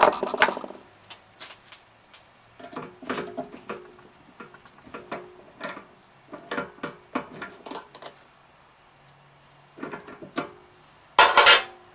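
Metal clicks, clinks and rattles of a drill chuck being worked with a chuck key and drill bits being handled, some of the clinks ringing briefly. A loud, sharp clatter near the end, as the key is set down on the machine.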